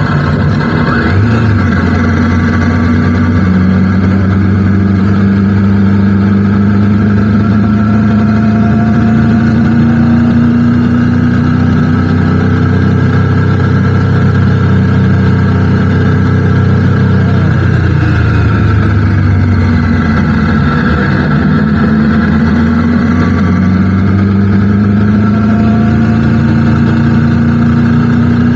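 Motorcycle engine running under way, its note slowly climbing in pitch as it pulls, dropping about two-thirds of the way through, then climbing again.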